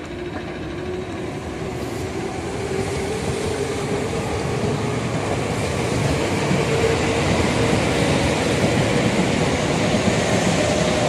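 Electric commuter trains running along the tracks: a steady rumble of wheels on rails that grows slowly louder as the trains come closer, with a faint held whine.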